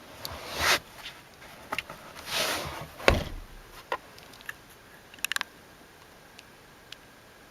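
Handling and movement noise: two brief rustling swells, a single sharp thump about three seconds in, and a quick run of clicks a little after five seconds.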